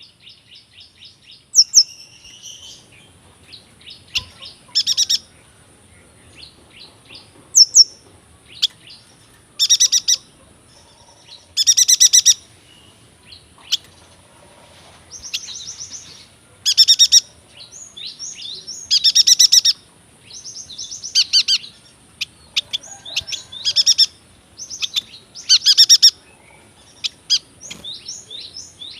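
Yuhina singing: short, bright trilled phrases about every two to three seconds, with quieter chirps and twitters between them.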